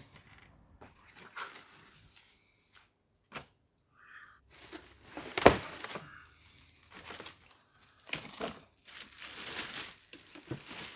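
Cardboard box and packaging being opened and handled: irregular rustling and scraping, with one sharp knock about halfway through.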